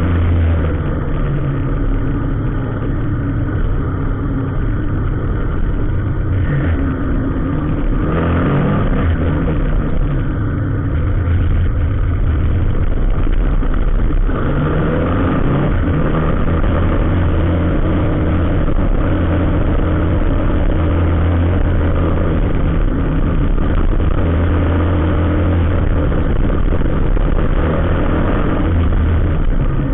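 Motor vehicle engine running steadily at low speed with road noise, its low hum swelling slightly now and then.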